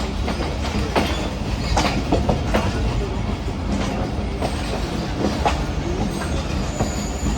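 Hazara Express passenger train running on the track: a steady low rumble with irregular clanks of the wheels over rail joints. A thin high wheel squeal sets in near the end.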